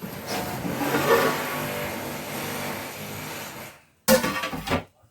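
An engine running steadily for a few seconds, then cutting off suddenly, followed by a short loud noise about four seconds in.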